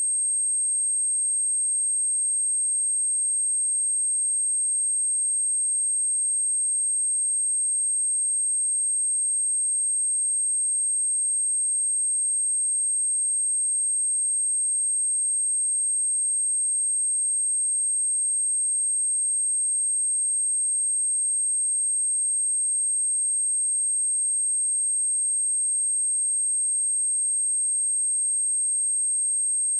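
A pure 8434 Hz sine-wave test tone, one steady high-pitched whistle held at an even level without a break.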